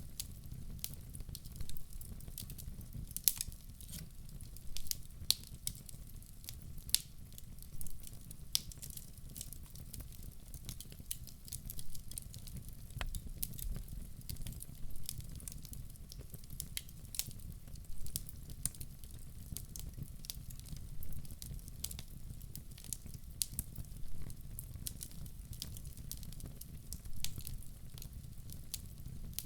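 Fireplace fire crackling: frequent sharp irregular pops and snaps over a low, steady rumble of the flames.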